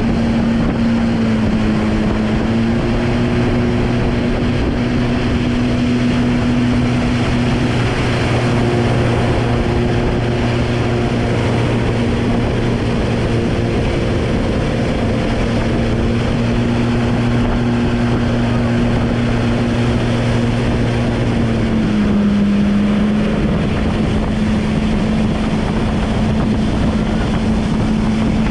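Motorboat engine running at a steady speed while towing a tube, with wind buffeting the microphone. The engine note dips briefly about twenty seconds in, then picks up again.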